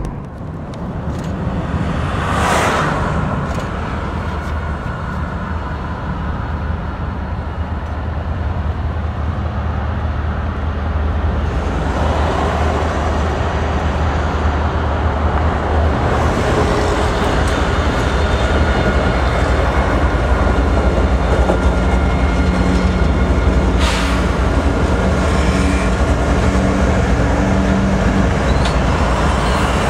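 Canadian Pacific GE freight locomotives with GEVO engines, an ES44AC leading, approach a level crossing and run past it, a steady low rumble that builds slowly as the lead units arrive near the end.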